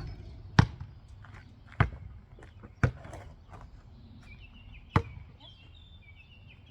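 Basketball bouncing on hard ground, four sharp single bounces: three about a second apart, then one more about two seconds later.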